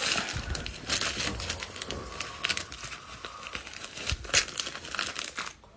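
Gift wrapping crinkling and rustling in irregular bursts as a ribbon bow is tied around the filled package, dying away near the end.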